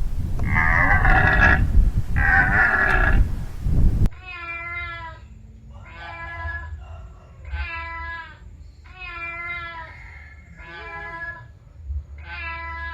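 Cat meowing: two long, loud meows over a rumbling background, then, after a cut, six shorter meows about a second and a half apart.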